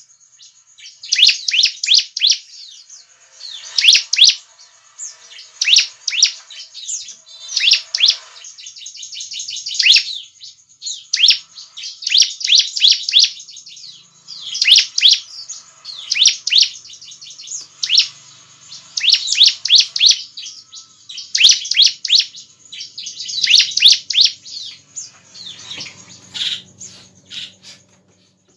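Bar-winged prinia (ciblek) singing: bursts of rapid, sharp, high chirps repeated every second or two.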